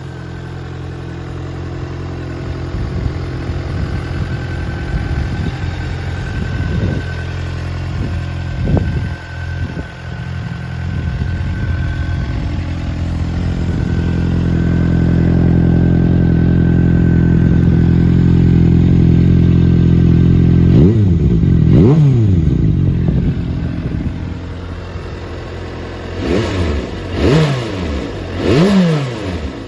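Suzuki GSR400 inline-four running through WR'S aftermarket twin rear mufflers: a steady idle broken by a couple of short throttle blips, then a bigger rev a little past two-thirds of the way in and three quick revs near the end.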